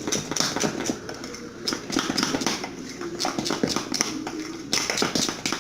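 A spoon beating thick batter in a bowl, in a run of quick wet slaps and taps against the bowl.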